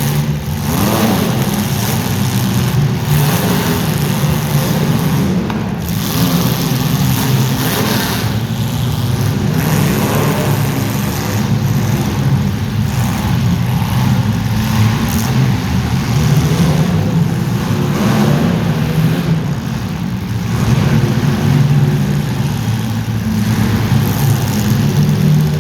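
Racing engines running loud and steady, with several revving up and down in pitch now and then, as in a race heat.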